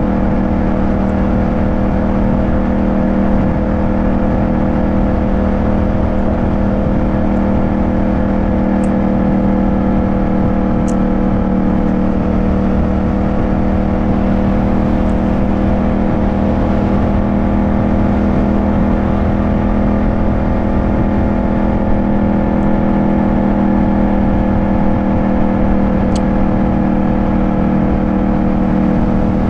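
Yamaha 689 cc parallel-twin motorcycle engine running under way at a steady road speed, its pitch holding nearly constant with a slight dip and recovery in the middle.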